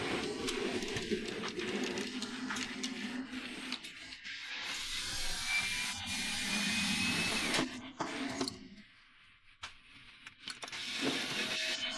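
Model train running on the layout: a locomotive's small electric motor hums and its wheels run along the rails. A thin high tone sounds for a couple of seconds midway, and the sound drops nearly to silence for about two seconds near the end before resuming.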